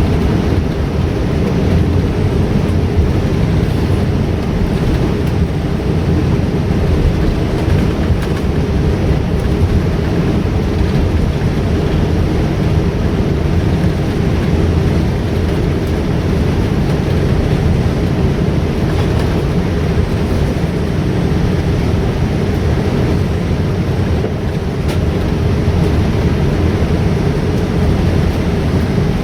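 Steady rumble of a jet airliner heard from inside the cabin while it taxis toward the gate after landing, with engine tones running through it. The level holds even throughout.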